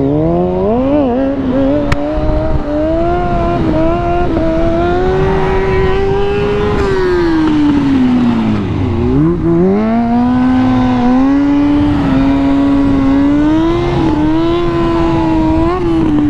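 Motorcycle engine running under way, its pitch rising as it pulls away and then holding fairly steady. About nine seconds in the revs drop as the bike slows, then climb again, with a rush of riding noise underneath.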